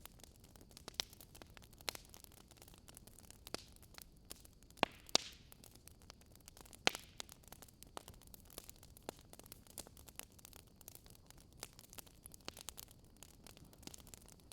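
Wood fire crackling, with sharp irregular pops and snaps, the loudest a cluster about five to seven seconds in, over a faint steady hiss.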